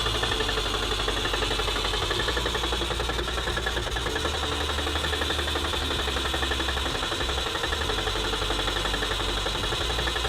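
Car engine idling steadily with a fast, even beat.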